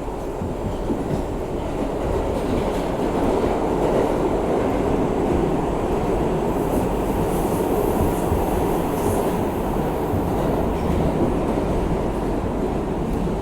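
R62A subway train running through the tunnel: a steady noise of wheels on rail that swells over the first few seconds and then holds.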